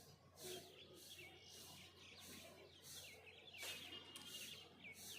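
Birds chirping faintly with short, quick notes, busier in the second half, over a high hiss that pulses about twice a second.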